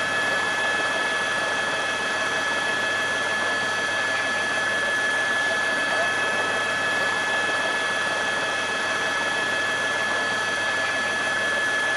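Steady aircraft engine noise: an even rush with a high whine held at one pitch throughout.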